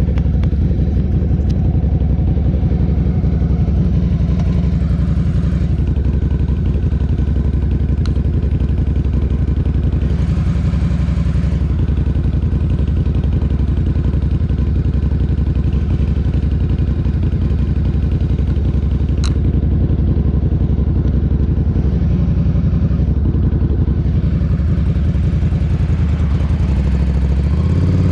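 Ducati cafe racer motorcycle engine running at a steady, unchanging pitch, then revving up with rising pitch near the end as it pulls away.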